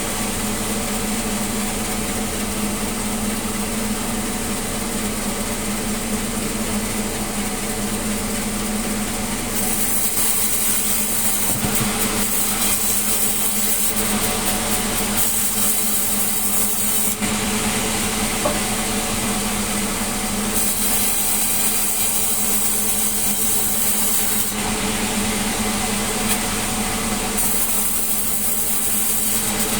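Sawmill saw running with a steady machine hum, its blade cutting melinjo wood in three passes, each heard as a loud hiss that starts and stops: about ten seconds in, around twenty seconds in, and near the end.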